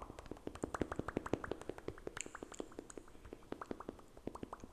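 Close-miked ASMR mouth sounds: a rapid, even run of wet mouth clicks, about seven or eight a second.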